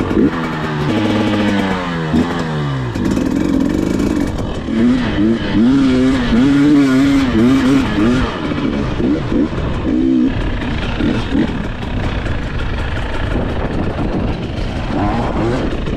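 Two-stroke dirt bike engine under way, its pitch dropping steeply about two seconds in, then rising and falling again and again as the throttle opens and closes.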